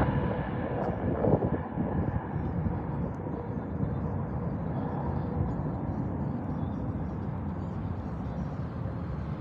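Jet engine noise of a Boeing 777-300ER with GE90 turbofans dying away after it passes, leaving a steady, slowly fading rumble, with wind buffeting the microphone.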